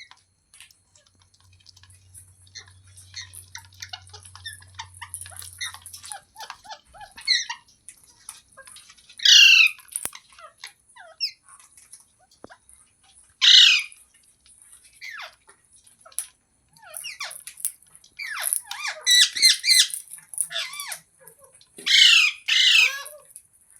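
Pet parrot chattering with many short chirps and calls, breaking into loud harsh squawks about nine seconds in, again around thirteen seconds, and in a cluster near the end.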